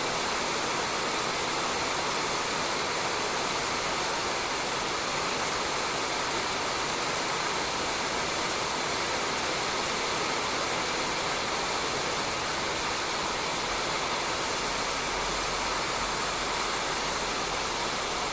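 Rain falling steadily on a roof, a dense even hiss with no breaks. A faint low rumble joins it about three-quarters of the way through.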